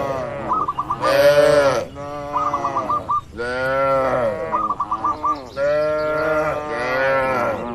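Cattle mooing again and again, each call about a second long, rising and falling in pitch. Short warbling chirps come between several of the calls.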